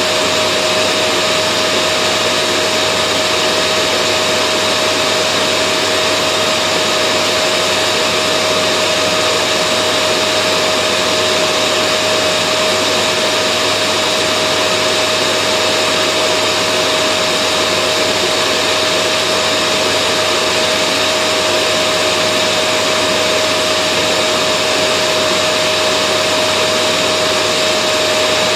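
Vacuum cleaner motor running steadily: a continuous dense rush of air with a constant whine, unchanging in pitch and level.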